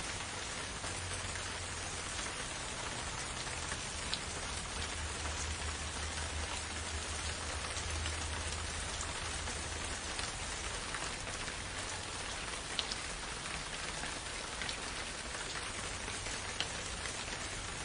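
Steady rain falling on foliage, a dense even hiss with scattered individual drop ticks and a low rumble underneath.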